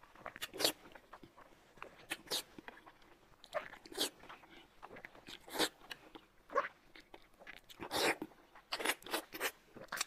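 Eating sounds: irregular crunchy bites and chewing, a sharp crunch every second or two.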